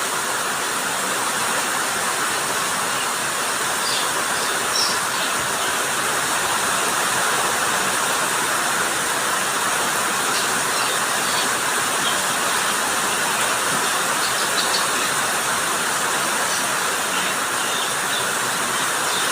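Steady, heavy rain falling, an even hiss with occasional small drops ticking through it.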